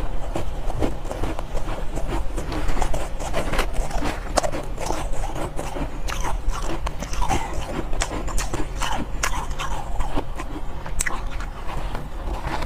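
Soft ice being bitten and chewed close to the microphone: a steady run of crisp crunches and crackles.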